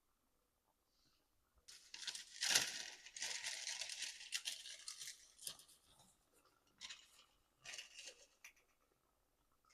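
Crinkly paper or plastic handled by hand: a rustling, crinkling stretch of about four seconds, then two short rustles.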